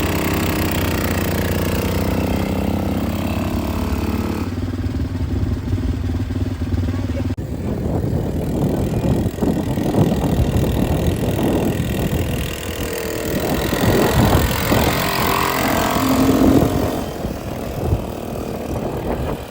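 Quad bike engine idling steadily. About seven seconds in it changes abruptly to a rougher, noisier engine sound with rushing wind.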